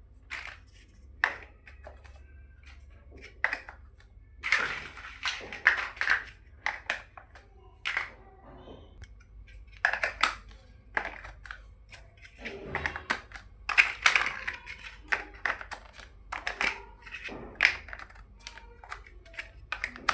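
Plastic building-block pieces being handled and pressed together: irregular sharp clicks and taps, some in quick clusters.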